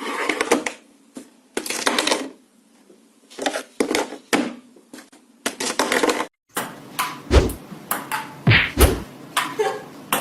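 Irregular knocks, clatter and thumps, a few with deep thuds in the second half.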